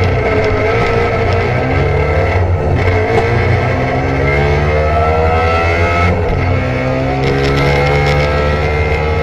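Trabant 601's two-cylinder two-stroke engine running under load, its pitch climbing slowly, then dropping back briefly about two and a half and six seconds in before climbing again.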